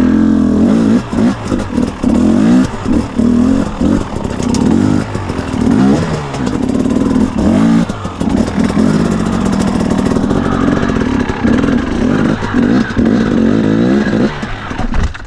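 2017 KTM 250 EXC two-stroke dirt bike engine revving up and down again and again under changing throttle, with short drops between the revs. The sound cuts off abruptly near the end.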